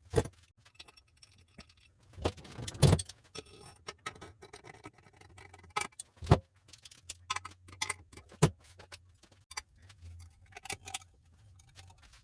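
Metal tools and engine parts clinking and knocking in irregular sharp strikes, the loudest about two to three seconds in and again near the middle, over a faint low steady hum.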